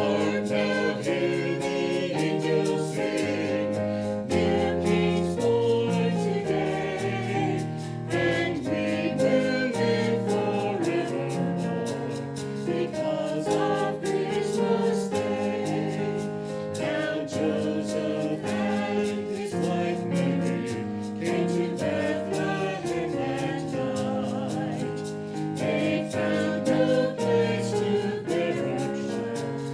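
Church choir singing in harmony with instrumental accompaniment, held chords moving from one to the next.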